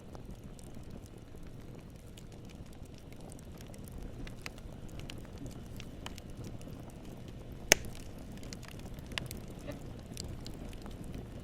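Wood campfire burning: a low steady rumble with scattered light crackles, one sharp loud pop about eight seconds in and a smaller pop a second and a half later.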